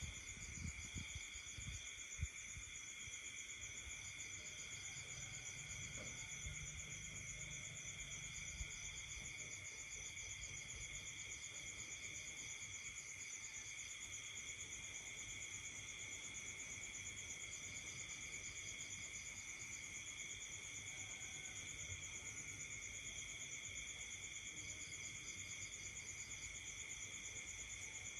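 Night insect chorus: crickets trilling steadily in several overlapping pitches. A faster pulsing high trill stops and starts several times, and there are a few low thumps right at the start.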